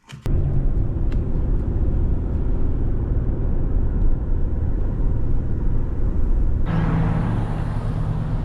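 Road and engine noise of a moving car, heard from inside: a loud, steady low rumble that starts abruptly. About two-thirds of the way in, a brighter hiss joins it.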